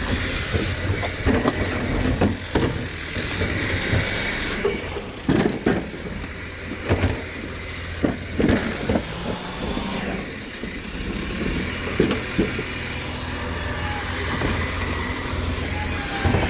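Rubbish truck's engine running steadily, with irregular knocks and rattles scattered through.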